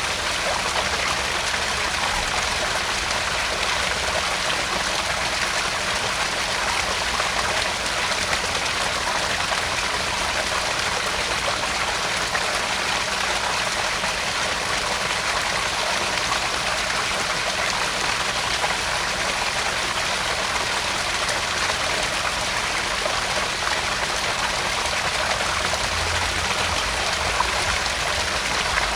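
Small garden pond waterfall splashing steadily into the pond, a constant running-water sound like a brook.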